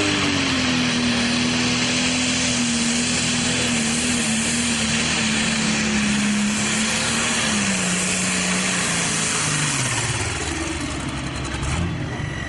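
Pro Stock pulling tractor's turbocharged diesel engine running flat out under the weight of the sled. Its pitch holds high for most of the pass, then drops away steeply near the end as the engine runs out of power.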